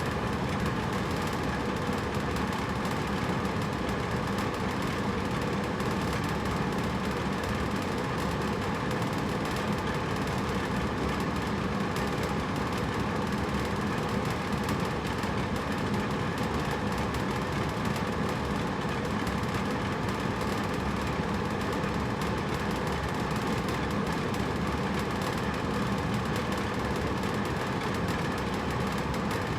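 Hotel room air conditioner running steadily: a constant hum and airflow rush with a faint low drone and no changes.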